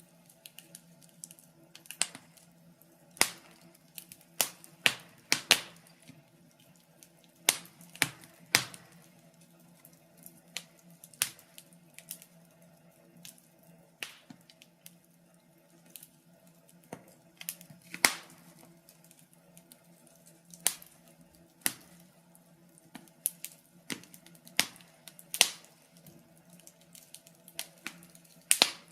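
Wood fire burning in a fireplace, crackling with irregular sharp pops and snaps, a few louder than the rest, over a faint steady low hum.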